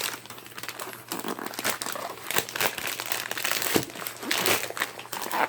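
Plastic shipping packaging crinkling and rustling in irregular bursts as it is handled and pulled open by hand.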